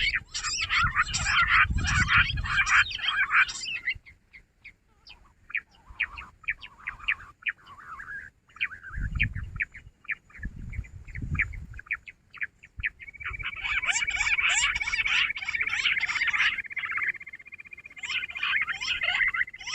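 Jungle bush quail calling in rapid, dense chattering bursts. The calls thin out and grow quieter for several seconds in the middle, then come back loud, with a thin steady tone underneath in the later part and a few dull low thumps.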